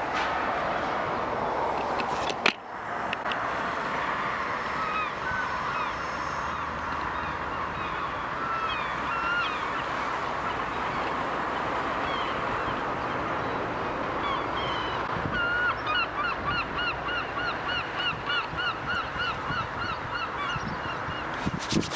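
A bird calling over a steady background noise: a few scattered calls, then, about 15 seconds in, a fast run of honking calls at about four a second, lasting some six seconds. A single knock about two and a half seconds in.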